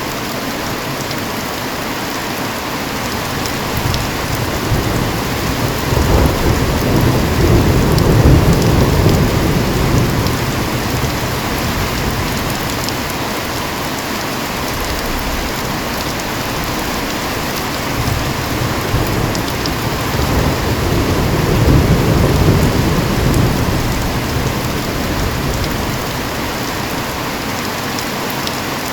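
Steady heavy rain hissing, with two long rolls of low thunder, the first swelling about a quarter of the way in and the second past the halfway mark.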